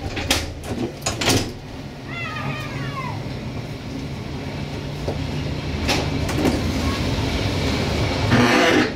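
Train running along the track under a diesel-hydraulic locomotive, with a steady low drone and sharp clicks of the wheels over the rails. A short falling tone comes about two seconds in, and a louder rushing hiss comes near the end.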